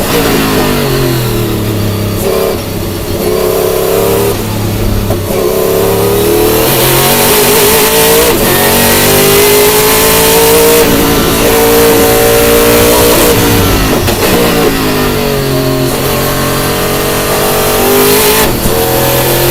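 Sauber-Mercedes C11 Group C race car's twin-turbo V8 at full speed, its pitch falling and climbing several times as it accelerates and slows, with a sharp drop about two-thirds of the way through before it climbs again.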